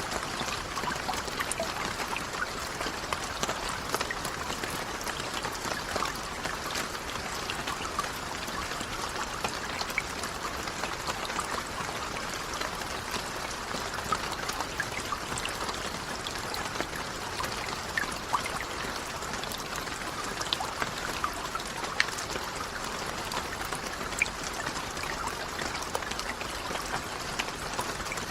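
Steady rainfall with many separate drops ticking close by, an even hiss without thunder.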